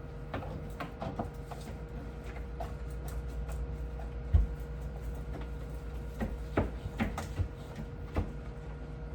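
Scattered light clicks and knocks of objects being handled, with one louder thump a little over four seconds in, over a steady low hum.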